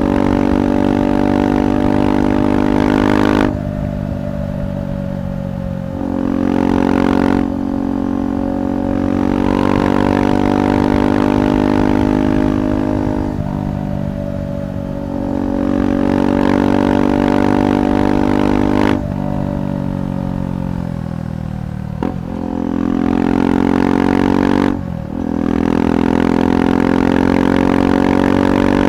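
KTM 390 Adventure's single-cylinder engine running through a Red Rooster aftermarket exhaust while riding at a steady cruise. The throttle shuts off abruptly three times, a few seconds in, past halfway and near the end, and the engine note picks back up each time.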